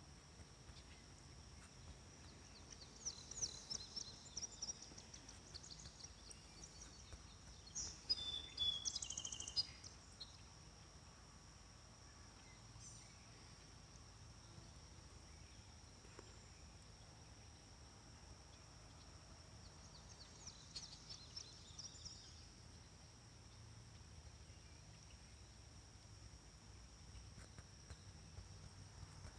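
Faint wild birdsong around a pond: trilled songs about 3 seconds in, again louder around 8 to 10 seconds with a short falling whistle, and once more about 21 seconds in, over a steady high-pitched insect hum.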